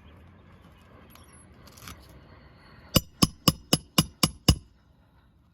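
Hand hammer driving a roofing nail into an asphalt shingle: seven quick sharp blows with a metallic ring, about four a second, starting about three seconds in.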